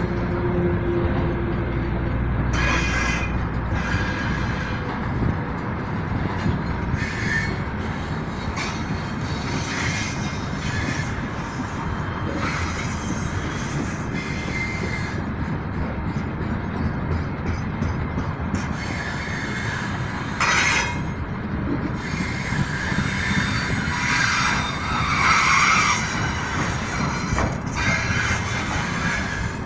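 Freight train wagons rolling past, their wheels squealing against the rails in high thin tones that come and go over a steady rolling rumble, with a louder screech about twenty seconds in and again near twenty-five seconds.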